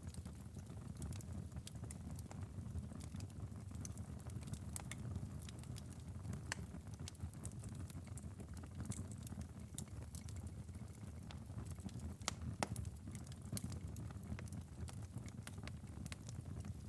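Wood fire crackling in a fireplace: scattered sharp pops and snaps over a steady low rumble of the flames, with a louder snap about twelve seconds in.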